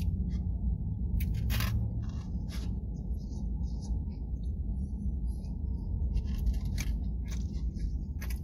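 A person chewing a mouthful of crisp breaded fried chicken sandwich, with scattered crunches, over a steady low hum in a car cabin.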